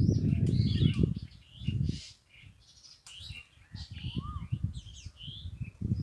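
Several small birds chirping and calling in a tree: quick high chirps and whistles, with one lower rising-and-falling whistle about four seconds in. A low rumble runs under them, loudest in the first second and again in the last two, dropping away for a moment in the middle.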